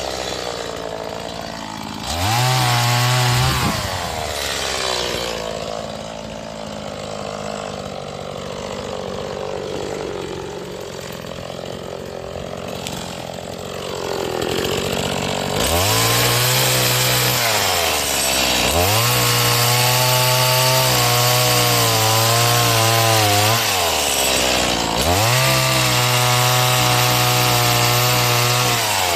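Stihl MS 180 two-stroke chainsaw being run in while cutting firewood: the engine revs up and holds several times, near the start, at about two-thirds of the way and again near the end, with a rougher, lower-pitched stretch in the middle.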